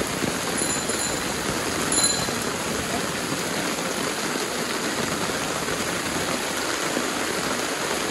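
Torrential rain pouring steadily onto a street, a dense, even rushing hiss. Two brief faint high rings sound about a second and two seconds in.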